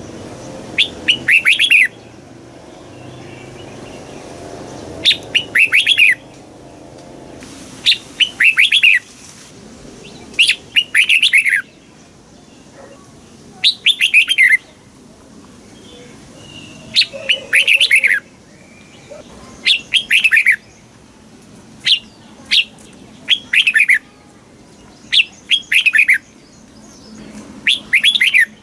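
Red-whiskered bulbul singing: short, quick, warbling song phrases, each about a second long, repeated every two to three seconds.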